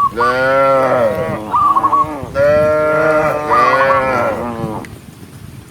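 A cow mooing twice, a shorter moo and then a longer one, with a bird chirping in short repeated notes between and over the moos.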